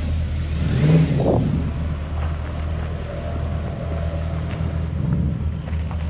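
Mercedes C63 AMG's M156 V8, fitted with long-tube headers and a stainless exhaust, running at a steady cruise with a low drone that swells briefly about a second in.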